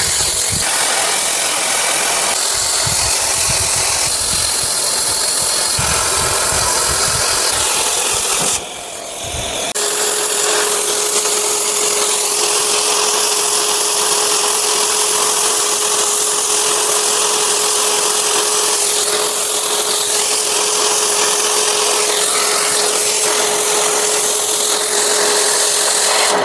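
Oxy-fuel cutting torch cutting a diagonal bevel through S45C steel plate: a loud steady hiss. It breaks off for about a second around nine seconds in, then resumes with a steady tone running through it.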